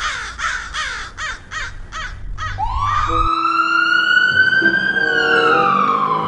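A fast run of harsh, crow-like caws, about four a second, stops about two and a half seconds in. Then a single ambulance siren wails up in pitch, holds high, and slowly falls away near the end as the ambulance drives off.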